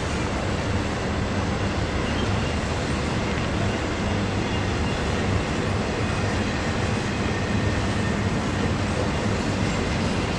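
Freight train rolling past, a steady rumble of wheels on rail with a low, even drone underneath.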